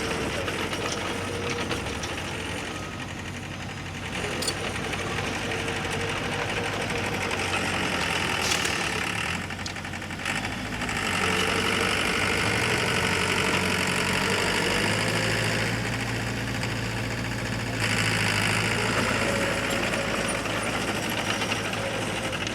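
Heavy earth-moving machinery's diesel engine running, with its load and pitch rising and falling in several swells.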